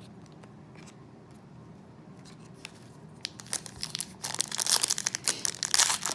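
Plastic trading-card pack wrapper crinkling and tearing as it is opened, starting about three seconds in and growing louder, with a few faint clicks before it.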